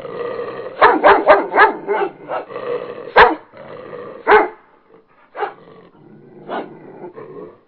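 Dog barking, a quick run of barks at first and then single barks about a second apart.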